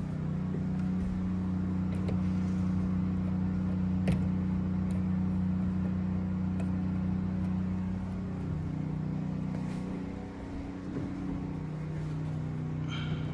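Steady hum of a motor running continuously, with a few light knocks; the sound dips slightly around eight and ten seconds in.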